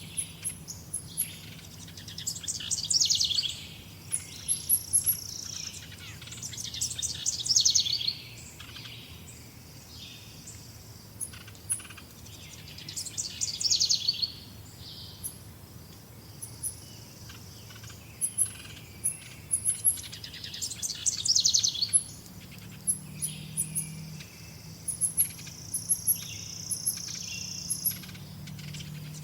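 Wild birds singing and chirping. One bird repeats a rapid phrase of quick notes every five to seven seconds, over short, high, thin chirps from other birds.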